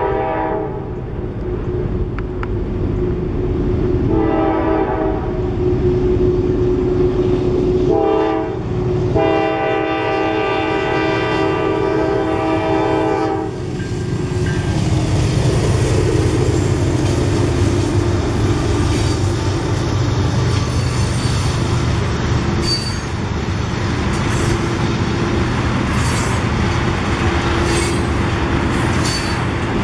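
Diesel freight locomotive horn blowing the grade-crossing signal: the end of one blast, a long blast about four seconds in, a short one about eight seconds in, then a long blast held until about halfway. The Norfolk Southern locomotive then passes with its engine running, followed by a string of tank cars rolling by with clickety-clack over the rail joints and short high wheel squeals.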